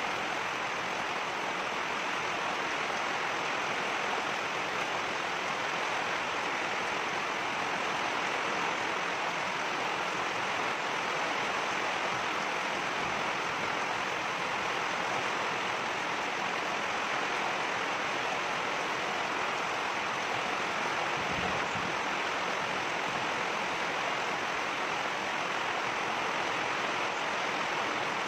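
Rain falling steadily: an even, continuous hiss of water pouring down.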